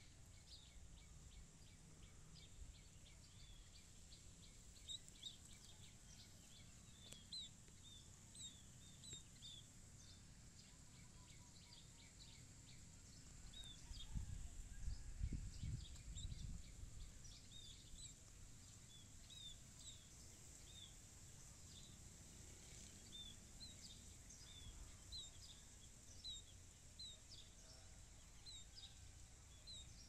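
Small birds giving faint, short, high chirps, dozens of them at irregular intervals. A brief low rumble comes about halfway through.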